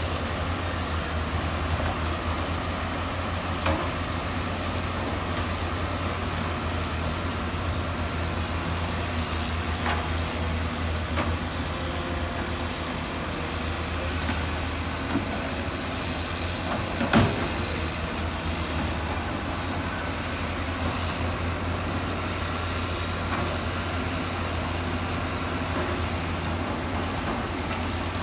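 Heavy diesel construction machinery running steadily with a low rumble, with a few sharp knocks, the loudest a little past halfway.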